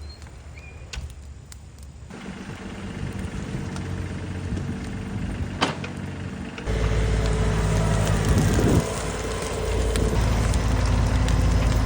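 A heavy machine's engine running, with sharp snaps and crackles of burning or breaking wood. The sound gets abruptly louder about two seconds in and again about seven seconds in.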